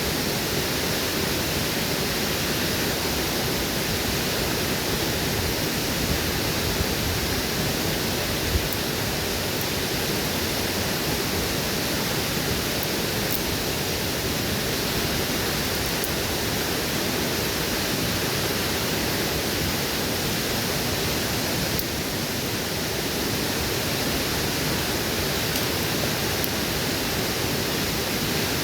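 Waterfall rushing in a steady, even roar, with a few faint clicks scattered through it.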